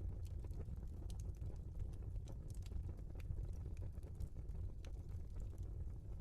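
Logs burning in a fireplace, crackling: irregular sharp pops and snaps over a steady low rumble of the fire.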